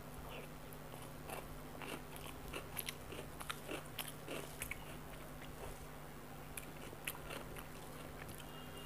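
Close-miked mouth chewing a handful of rice mashed with bitter gourd and potato: faint, irregular wet clicks and smacks, busiest in the first half, over a faint steady hum.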